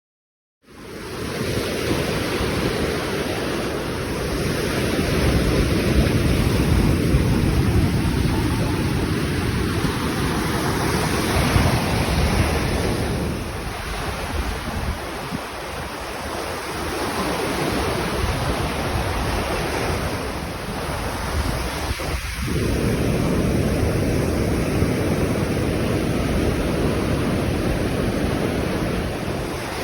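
Ocean surf breaking on a beach, mixed with wind buffeting the microphone. It starts abruptly just under a second in and swells and eases in waves of noise.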